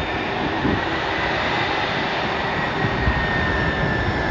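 Airbus A380's jet engines running: a steady, loud roar with a thin high whine held throughout.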